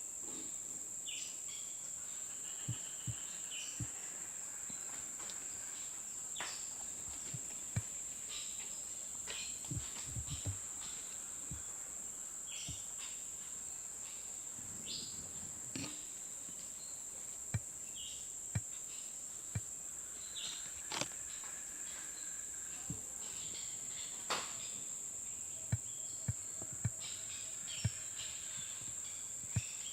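Steady high-pitched insect chorus, with scattered sharp clicks and short chirps over it.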